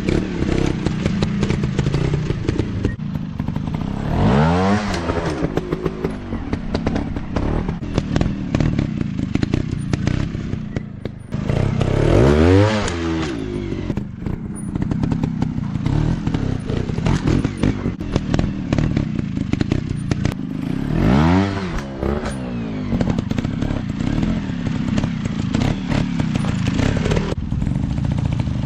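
Dirt bike engines revving up and easing off in four strong surges about eight seconds apart, running steadily in between, with clattering and thudding.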